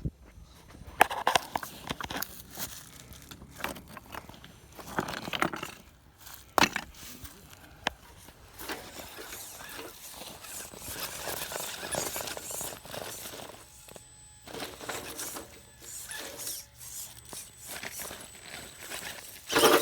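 Irregular crunching, scraping and crackling, with several sharp knocks about a second in and again around six and a half seconds in.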